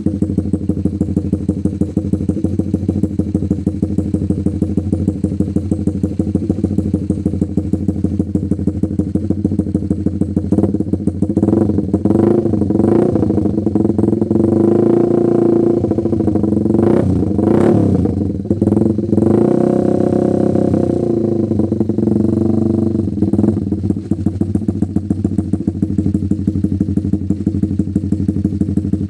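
Honda CB150R's single-cylinder engine breathing through an aftermarket Mafia exhaust silencer, idling with an even pulsing beat. About a third of the way in it is revved several times in quick blips and a few longer revs, then drops back to idle.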